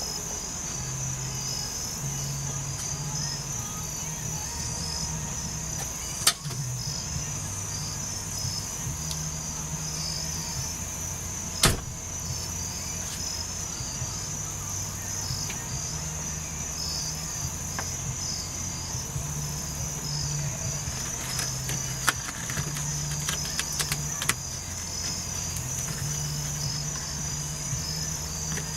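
Steady high chirping of crickets throughout, over a low uneven hum, with a few sharp clicks or knocks scattered through, the loudest about twelve seconds in.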